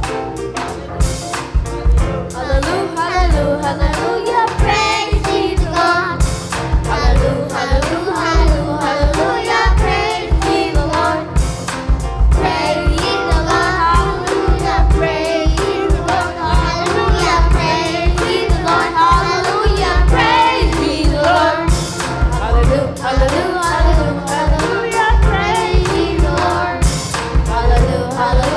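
Gospel worship music: a youth choir singing over a band with a steady drum beat and heavy bass.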